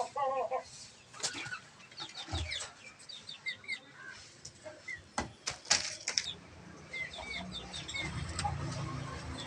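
Aviary birds chirping in many short calls, with several quick wing flaps or knocks among them. A low hum comes in about three-quarters of the way through.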